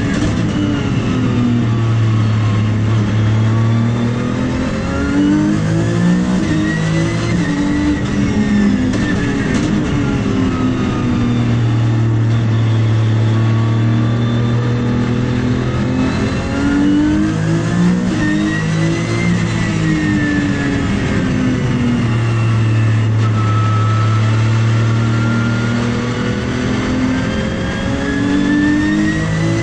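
Porsche 997 GT3's flat-six racing engine under hard driving, its revs climbing and falling again and again as the car accelerates and slows through the lap.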